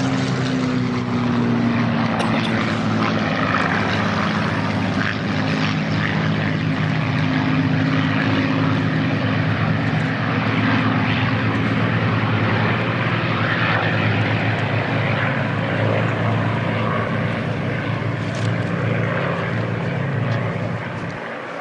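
Propeller-driven Second World War fighters, Spitfires among them, droning steadily overhead with their piston engines running. The engine pitch falls slightly in the first couple of seconds as one passes.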